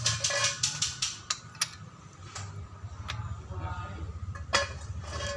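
Rapid, even metallic clicking, about seven clicks a second, that stops about a second in. A few separate sharp clicks and knocks follow over a steady low hum, from hand work on the truck's differential.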